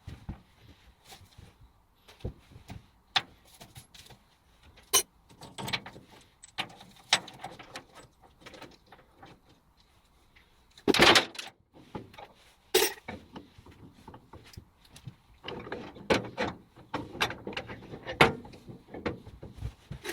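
Irregular knocks, clicks and rattles of objects being handled, with a louder clatter about eleven seconds in and another shortly after; no machine is running.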